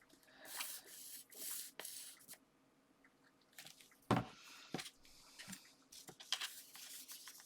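Paper and card being handled and rustled on a craft desk, with one sharp tap of the card against the desk about four seconds in.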